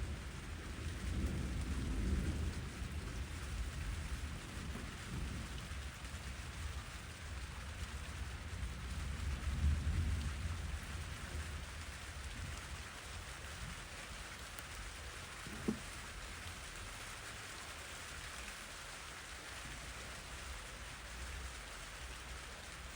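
Steady rain falling, with deep low rumbles that swell about two seconds and ten seconds in and die away by the middle. A single sharp tick sounds about two-thirds of the way through.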